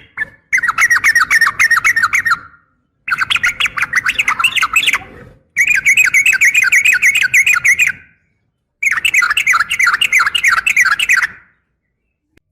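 Female yellow-vented bulbul (trucukan) calling to attract a male: four bursts of rapid repeated chattering notes, each about two seconds long, with short pauses between.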